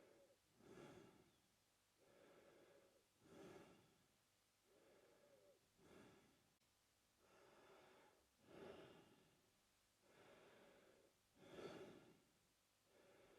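A man breathing slowly and regularly through his mouth, each breath in and out audible. There are about five full breaths, one roughly every two and a half seconds.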